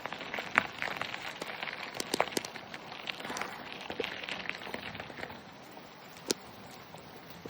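Bicycle rolling along a rough path: gravel crackling under the tyres with irregular sharp clicks and rattles, easing off a little after about five seconds.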